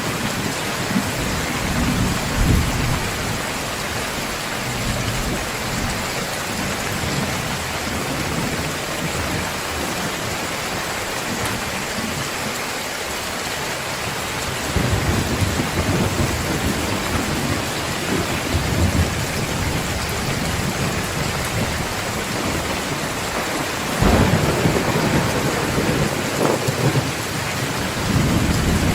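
Heavy rain pouring steadily in a thunderstorm, with thunder rumbling low underneath. The rumbling swells through the second half, and a louder clap of thunder comes in suddenly near the end.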